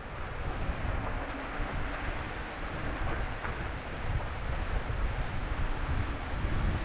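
Steady wind rush on the microphone with the rolling rumble of an e-bike riding along, inside a tunnel.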